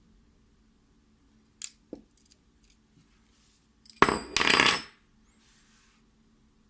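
Small metal lock parts clattering onto a hard surface, a loud jangle with a high ringing about four seconds in, after a few light clicks.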